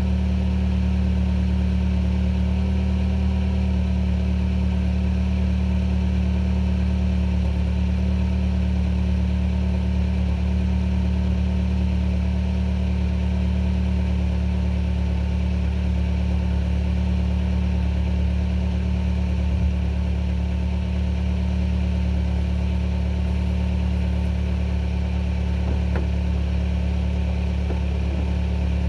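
2014 Hyundai Sonata's 2.4-litre inline-four idling steadily, heard at the tailpipe as it warms up after a cold start at about 35 °F.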